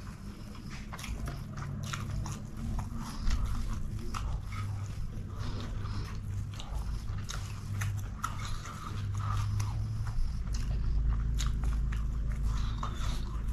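Close-up eating sounds of chicken biryani eaten by hand: chewing with many quick wet clicks and smacks of mouth and fingers.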